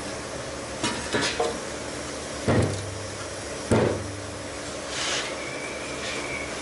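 A few sharp knocks and clanks from hand tools and metal parts being handled during tailgate disassembly. The two loudest come about two and a half and three and a half seconds in, and each leaves a short low ring, over a steady low hum.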